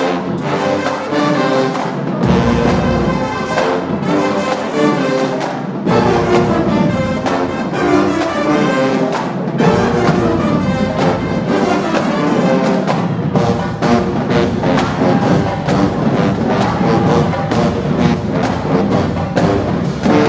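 HBCU marching band brass section (trumpets and trombones) playing loudly over drumline percussion.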